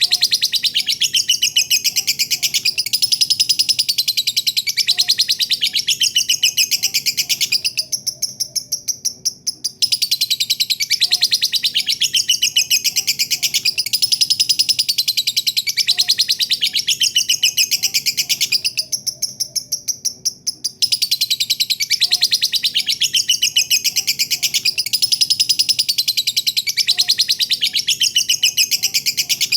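Lovebird giving its long 'ngekek' song: a rapid, high-pitched, unbroken chattering trill in three long phrases of about eight to nine seconds each, with a pause of a second or two between them.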